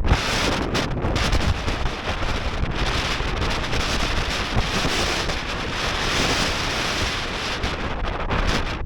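Strong gale buffeting the microphone: a steady roar of wind noise with gusty low rumbles.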